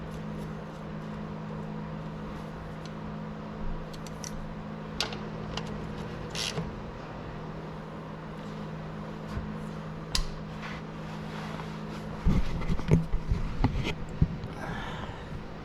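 A steady low machine hum that stops about twelve seconds in, with scattered light clicks and knocks, then a burst of louder knocks and clatter that is the loudest part.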